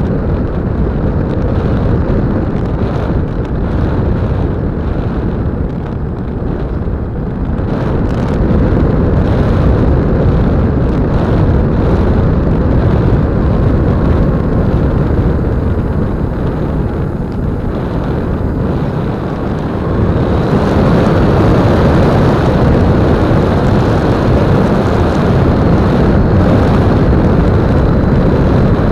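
Wind rushing over the microphone of an on-board keychain camera on an E-flite Apprentice 15e electric RC plane in flight, mixed with its electric motor and propeller. The sound gets louder at about eight seconds and again at about twenty seconds, where a thin high whine comes in.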